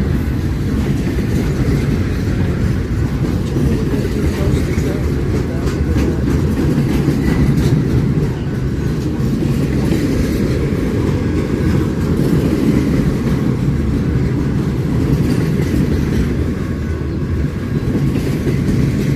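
Train rolling past: a loud, steady rumble of railcar wheels on the rails that holds throughout.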